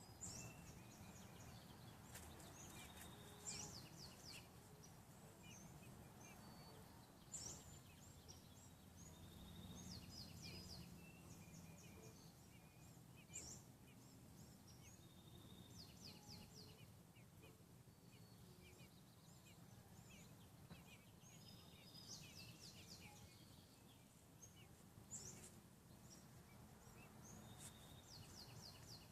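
Faint, high bird chirps, quick trills and short whistled notes every few seconds over a low, steady background rumble.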